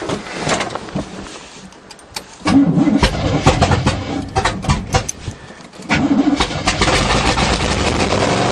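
Starter motor cranking the 1977 GMC truck's 400 small-block V8 in two bursts with a short pause between, after a few light clicks; the carbureted engine has sat for months and is being primed with gas poured into the carburetor, and it does not keep running.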